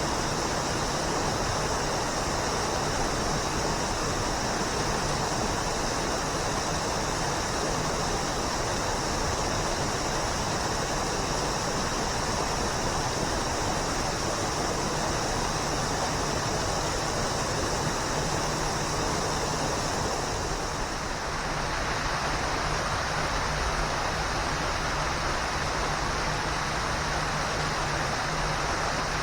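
Waterfall water rushing and splashing in a steady, loud, even roar of noise, with a short dip and a slight change in tone about two-thirds of the way through.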